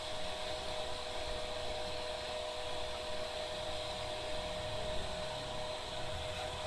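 Hair dryer running steadily: an even blowing hiss with a steady whine from its motor.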